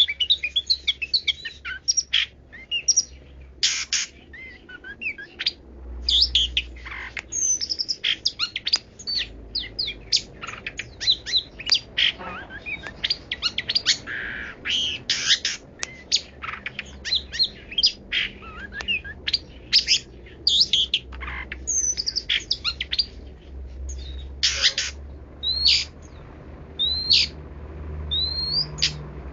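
Long-tailed shrike (pentet) singing a rapid, varied song of many different chirps, whistles and rising sweeps, the rich, mixed repertoire the species is kept for.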